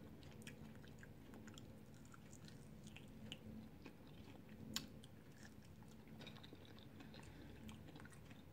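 Faint chewing and small clicks of a person eating a Flamin' Hot Cheetos-crusted chicken wing off the bone, with one sharper click a little past halfway.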